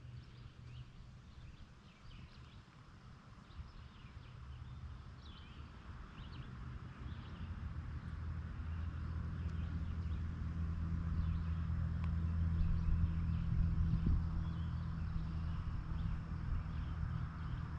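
A distant engine hum that grows steadily louder and then eases slightly near the end, with faint bird chirps over it.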